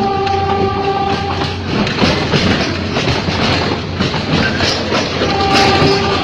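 Ex-JR 203 series electric multiple unit running, with its wheels clacking over rail joints. A steady horn-like tone sounds for about a second and a half at the start and comes back near the end.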